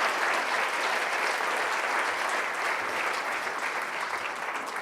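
Audience applause, a dense steady clapping that starts to die down near the end.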